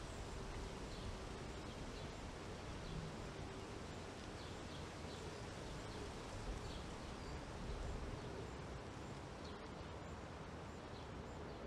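Steady outdoor background hiss, with faint short high chirps scattered through it.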